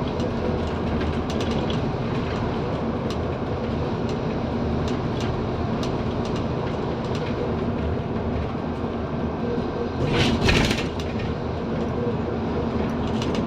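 Scania N230UD double-decker bus's five-cylinder diesel engine running under way, heard from inside the bus, with light body rattles and a brief louder clatter about ten seconds in.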